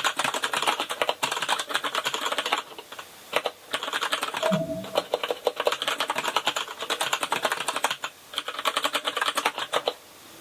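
Typing on a Kinesis Advantage contoured keyboard with Cherry MX Brown switches: fast runs of keystrokes broken by a few short pauses, stopping near the end.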